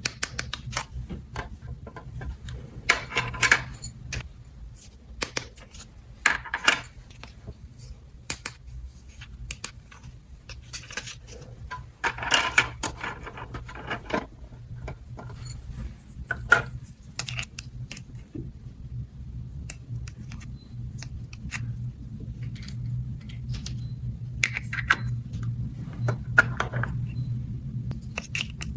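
Small hard plastic toy pieces clicking and rattling as they are handled and set down, in scattered clusters over a steady low hum.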